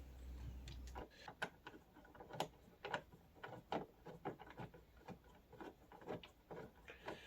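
Faint, irregular clicks and taps, two or three a second, of a screw being worked through a plastic kids' ride-on steering wheel and its steering rod.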